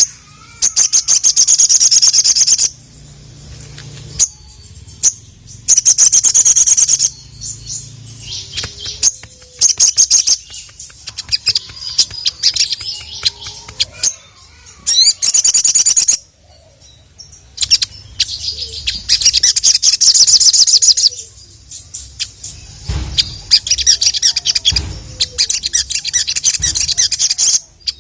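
Sogon (sogok ontong) sunbird singing its rapid, full song, called "gacor" by keepers: loud bursts of fast, high-pitched trilling and chattering, each a second or three long, repeated about every few seconds with short pauses between.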